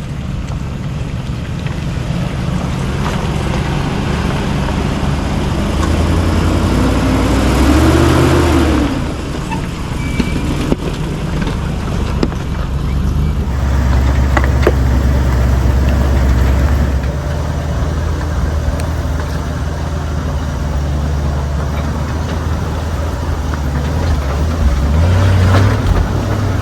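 Truck engine running steadily at low speed while crawling down a rough dirt track, with a brief rise and fall in pitch about eight seconds in and a few faint knocks and rattles.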